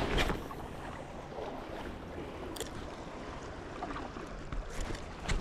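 Sea water sloshing against a fishing kayak's hull, with wind noise and a few light clicks.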